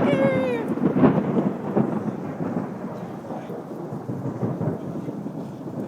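Thunder rumbling over heavy rain, swelling about a second in and then slowly fading away.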